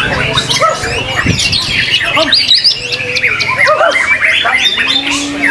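Several white-rumped shamas (murai batu) singing at the same time in a contest, a dense tangle of overlapping whistles, trills and quick chirps with no pause.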